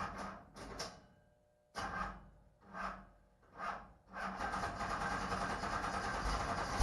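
Race car starter motor cranking the engine in six short bursts, then cranking continuously for about two and a half seconds, a sign of a hard-starting engine with a weak or dragging starter.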